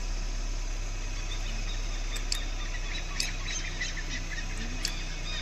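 Small birds chirping: quick, short, high calls, many in a row from about a second in, over a steady low hum.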